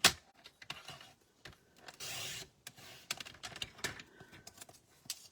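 A sheet of designer series paper being cut to size and handled. There is a sharp click at the start, scattered taps and clicks, and a half-second scraping hiss about two seconds in as the cut is made.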